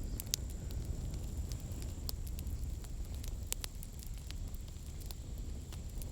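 Campfire firewood burning, with scattered sharp crackles and pops over a steady low rumble. The loudest pop comes about a third of a second in.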